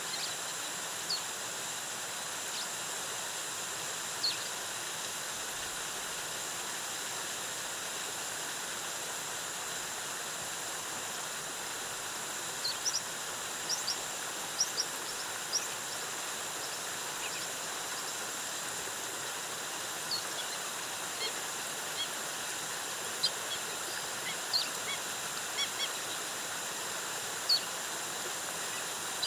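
Steady rushing of a rainforest waterfall, with short high bird chirps dotted through it, more frequent in the second half.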